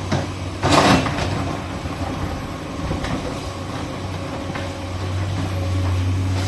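Hydraulic excavator's diesel engine running steadily with a low drone, with a loud, short clatter of the bucket on rock and soil about a second in and a few lighter knocks after.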